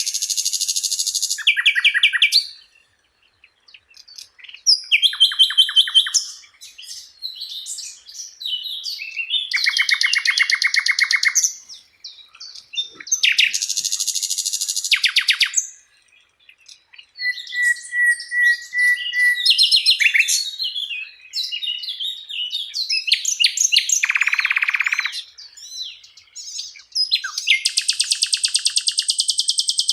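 Sikatan londo, a flycatcher kept as a songbird, singing a long varied song of rapid trills and chattering phrases separated by short pauses. One lower, even trill comes a little past the middle, and a buzzier phrase follows it.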